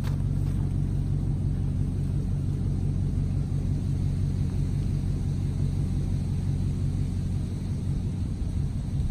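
Vehicle engine running steadily at low speed, a constant low hum.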